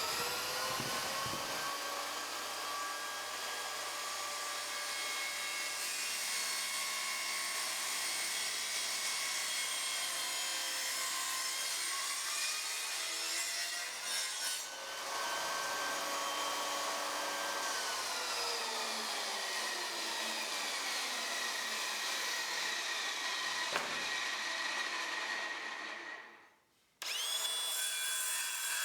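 Electric power tool running on wood, a steady noisy working sound with a motor whine that shifts in pitch as the tool is worked. Near the end it stops abruptly, then the motor runs up again.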